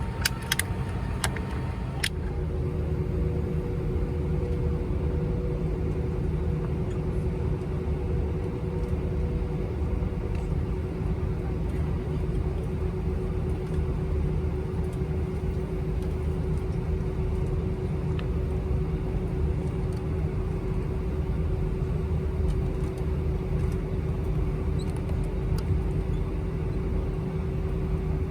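Steady low rumble inside an Airbus A319 cabin on the ground, with a steady mechanical hum over it. There are a few clicks in the first two seconds, and a second, higher hum that fades out about ten seconds in.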